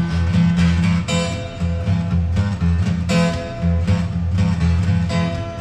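Live music: a strummed acoustic guitar playing an instrumental break between sung verses, chords struck about once a second over a strong low bass part.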